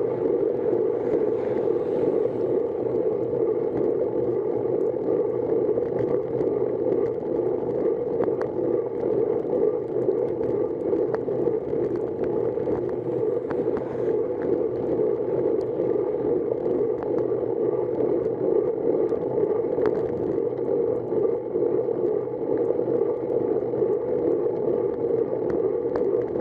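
Steady rushing ride noise from a bicycle on the road, wind and tyre noise mixed, with scattered small ticks throughout.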